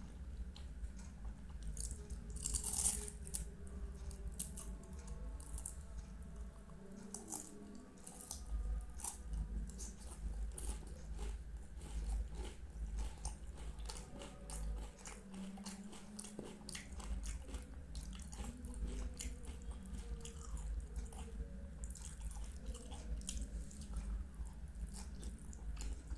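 A person biting and chewing Indian sweets close to the microphone, with many short wet mouth clicks scattered throughout and a louder bite about three seconds in.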